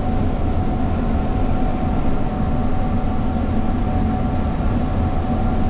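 Heavy farm machinery running steadily: a constant low drone with a steady whine on top.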